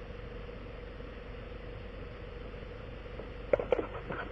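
A steady engine hum with one constant tone, joined near the end by a few sharp clicks or knocks.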